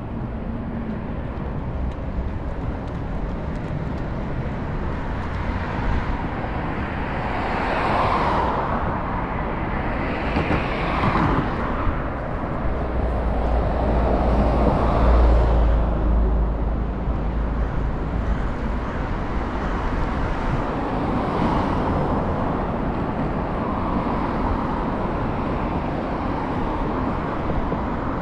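Street traffic and road noise heard from a moving scooter: a steady rush with several passing vehicles swelling up and fading away, and a deep rumble around the middle.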